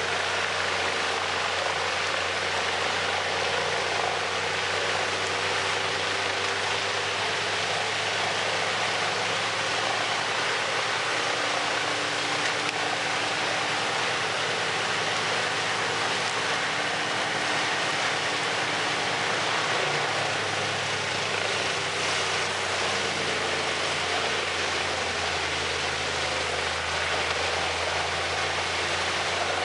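Large industrial wood chipper running at steady load: an engine drone under a constant rushing, grinding noise from the chipping drum and feed. The engine's low hum shifts about twenty seconds in.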